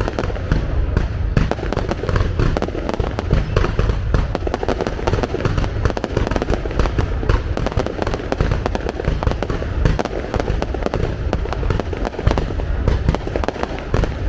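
Fireworks display: a dense, continuous barrage of bangs and crackles with a heavy low rumble and no pause.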